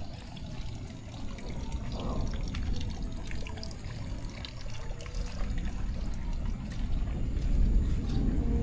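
Rainwater running and trickling steadily, as in a roadside channel or gutter after heavy rain.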